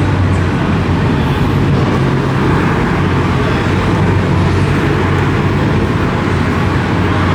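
Car engines idling, a steady low drone over an even wash of background noise.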